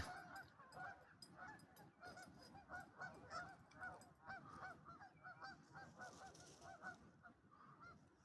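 A flock of waterfowl on a lake calling faintly: many short calls, several a second, overlapping.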